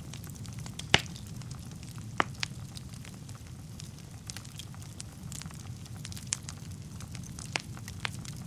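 Wood fire burning in a fireplace: a steady low rumble of flames with scattered crackles and sharp pops from the burning logs, the loudest pop about a second in.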